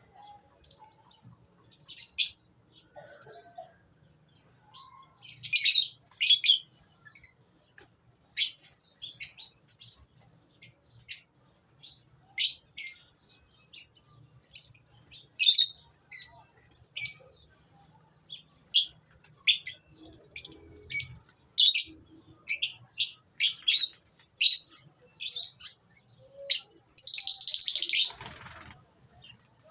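Lovebirds in a breeding colony giving short, shrill chirps, scattered irregularly, several overlapping at times. Near the end comes a longer, rougher burst of about a second and a half.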